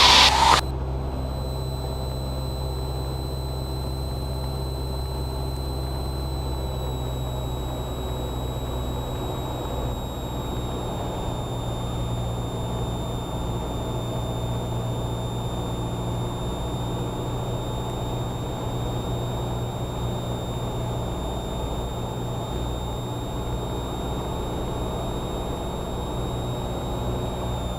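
Cessna 172R's four-cylinder Lycoming engine and propeller droning steadily in flight. Thin high-pitched steady whines sit above the drone and step slightly lower about 6 and 11 seconds in.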